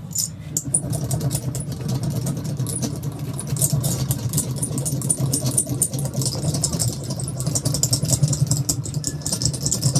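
A motor running steadily with a low hum, overlaid by a dense high-pitched crackle.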